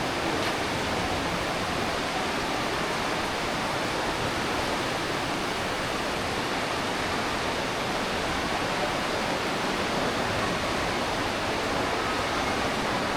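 Aare River water rushing through a rock gorge: a steady, unbroken rush of water with no distinct events.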